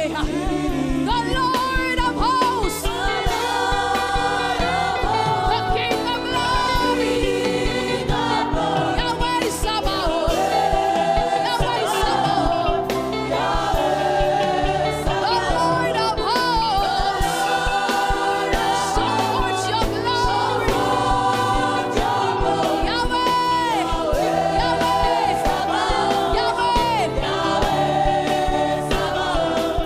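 Live gospel worship music: voices singing together over a band with drums, keyboard-like chords and a bass line.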